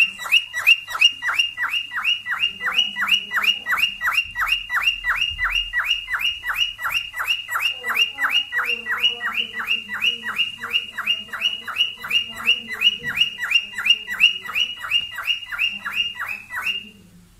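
Cockatiel's courtship call: a rapid, even series of short chirps, about four a second, each sliding down in pitch, that stops abruptly near the end.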